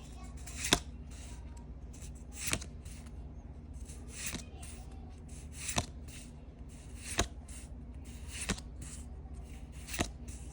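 Pokémon trading cards being slid off a stack one at a time. Each card makes a short swish that ends in a crisp snap, about every one and a half seconds.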